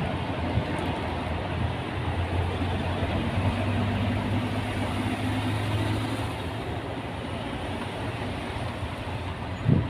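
Steady road and engine noise of a moving vehicle heard from inside, with a low hum underneath; a short thump near the end.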